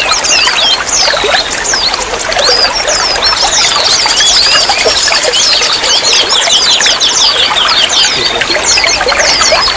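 Running water trickling and babbling, steady and loud, full of quick high bubbling plinks.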